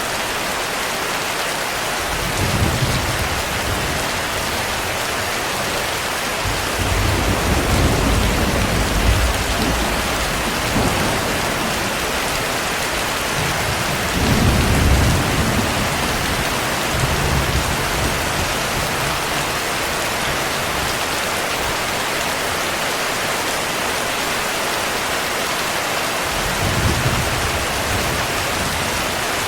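Heavy rain falling steadily, with several low rolls of thunder rumbling under it. The strongest roll comes about halfway through and the others are spread through the rest.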